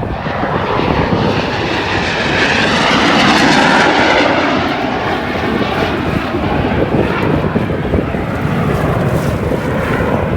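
Airshow aircraft passing overhead: a loud engine roar that swells to its loudest about three to four seconds in, then eases off but keeps going.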